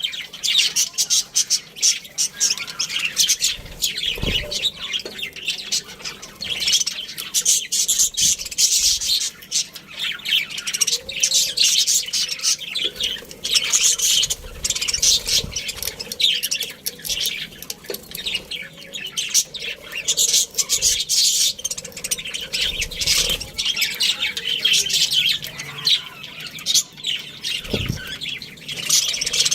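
A colony of budgerigars chirping and chattering nonstop, a dense overlapping mix of high chirps and squawks. There are a couple of dull low thumps, one a few seconds in and one near the end.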